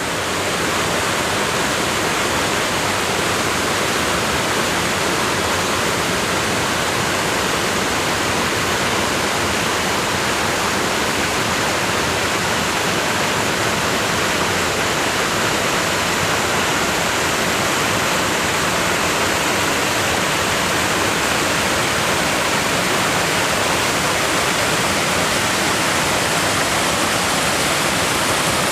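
Kivach Falls, a river waterfall, rushing: a loud, steady roar of falling water with no change in level.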